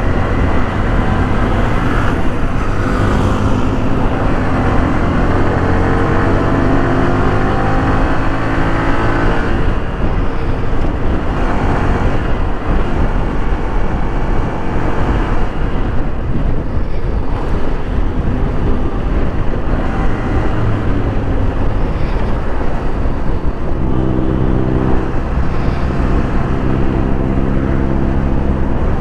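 Motorcycle riding on a road, its engine rising in pitch as it accelerates over a steady rushing road noise. Near the end there are two long steady tones, like a vehicle horn.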